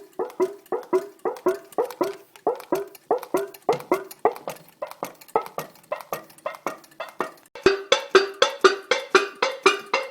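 Homemade can Stirling engine running, its can flexing with a ringing tonk on every stroke in a steady beat of about three a second, a little faster and brighter for the last couple of seconds.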